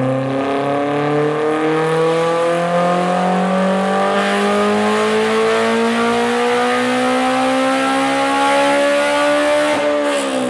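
Honda S2000's four-cylinder engine at wide-open throttle on a chassis dyno, its revs climbing steadily through one long pull, then dropping sharply near the end as the throttle is lifted.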